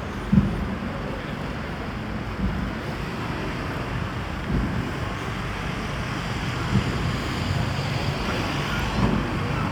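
Steady wash of sea surf and wind, with a soft low thud about every two seconds.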